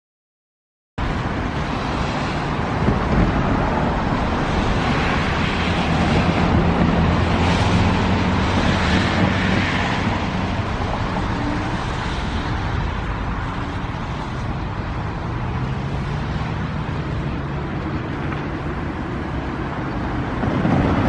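Steady engine and road rumble of a passing motor vehicle, with wind on the microphone, starting abruptly about a second in.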